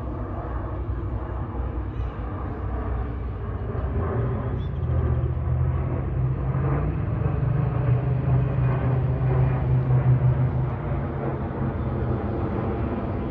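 Aircraft passing overhead: a low rumble with a steady low hum that rises slightly partway through and swells to its loudest about ten seconds in, then eases.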